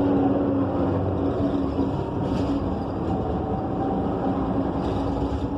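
Gillig BRT Plus transit bus heard from inside the cabin while under way: its Cummins Westport ISL G natural-gas engine and Allison B300R transmission running steadily, a droning hum over low road rumble.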